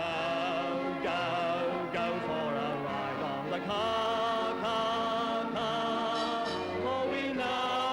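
Old music-hall song about the trams: a singer with vibrato over instrumental accompaniment.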